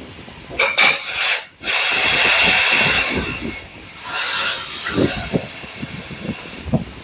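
Compressed air hissing in bursts from a pneumatic tool: a short burst, a longer steady blast of about a second and a half, then another short one, followed by lighter knocks and handling sounds.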